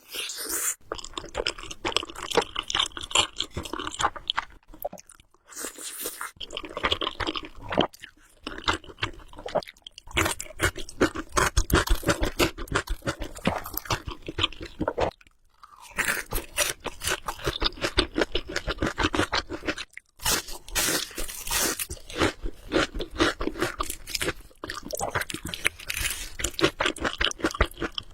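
Close-miked mouth sounds of someone eating Samyang Buldak carbonara noodles: dense runs of wet chewing clicks and smacks. The runs are broken by a few brief pauses.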